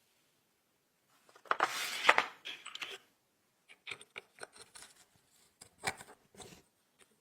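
Scraping and rubbing on small hard parts starting about a second in, with a couple of sharp knocks, then a scatter of light clicks and taps as the parts are handled.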